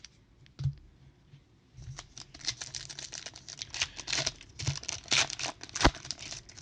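Foil wrapper of a trading-card pack crinkling and tearing as it is opened and the cards are handled, a dense crackly rustle starting about two seconds in, with a sharp snap shortly before it stops.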